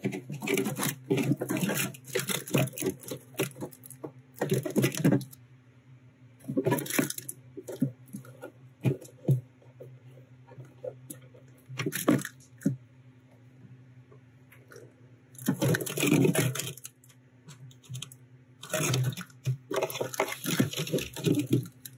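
Meltwater draining out of a portable compressor fridge's drain valve in irregular gushes and splashes, with a steady low hum underneath.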